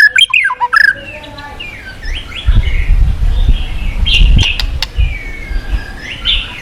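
White-rumped shama (murai batu) singing a varied run of clear whistles, quick chirps and sliding notes over the steady rush of a flowing river. A deep rumble swells in the middle.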